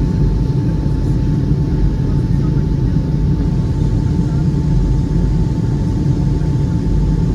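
Steady, loud low rumble with a faint, even high hum held on one note throughout.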